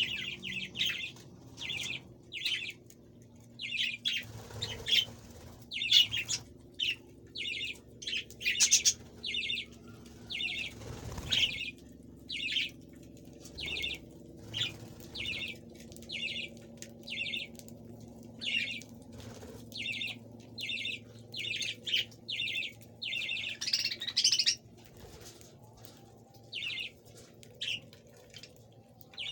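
Pet birds chirping: short high chirps repeated about one to two a second, with a few louder, sharper sounds among them.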